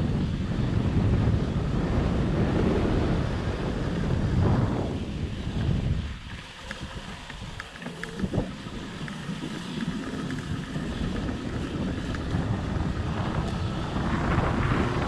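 Wind buffeting the microphone on a moving fat bike, a heavy low rumble that eases off for a couple of seconds in the middle and builds up again near the end.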